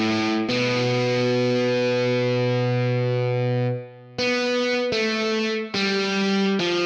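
Background music: an electric guitar with distortion and effects playing sustained chords. One chord is held for about three seconds and drops out briefly, then shorter chords follow, changing about once a second.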